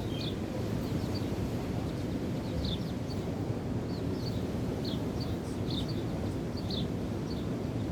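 Wind and waves making a steady rushing noise, with wind buffeting the microphone. Birds give short high chirps at irregular intervals throughout.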